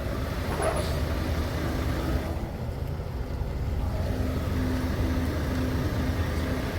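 Semi truck's diesel engine running at low speed, a steady low rumble.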